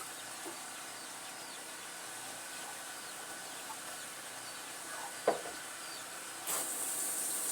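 Faint short bird chirps over a quiet background, with one sharp knock about five seconds in. Near the end a steady hiss of water running from a tap starts.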